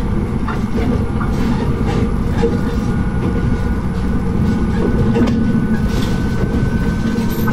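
Diesel railcar of the Tsugaru Railway running along the line, heard from the cab: a steady low rumble of engine and wheels on rail, with a few irregular clicks over rail joints. A faint thin whine runs through the second half.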